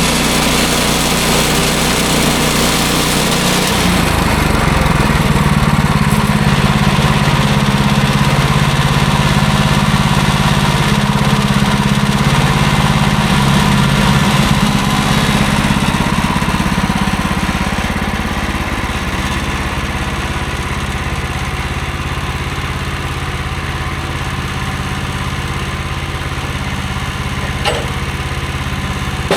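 Engine of a bandsaw sawmill running steadily. Its note changes and grows stronger about four seconds in, then eases off somewhat around eighteen seconds in.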